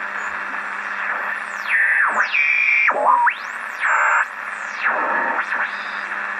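Home-built regenerative shortwave receiver on the 80-metre band giving several heterodyne whistles that glide steeply down to a low pitch and back up again, over steady band hiss and a low hum. These are carriers beating against the receiver's oscillating detector as they pass through zero beat.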